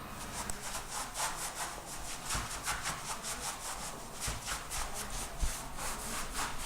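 Rhythmic rubbing or scraping, about four quick strokes a second, kept up steadily.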